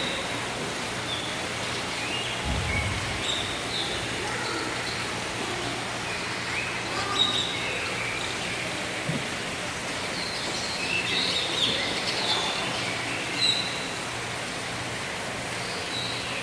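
Birds chirping: short high chirps and brief rising calls scattered throughout, over a steady hiss. A brief low rumble comes about two and a half seconds in.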